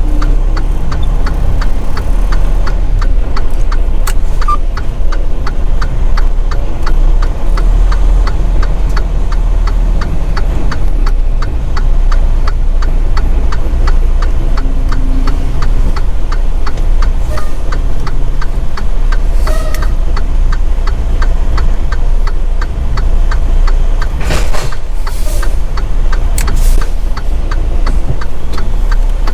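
Semi truck's diesel engine running steadily, heard from inside the cab as a deep rumble, with a faint regular ticking over it. A few short hissing bursts come near the end.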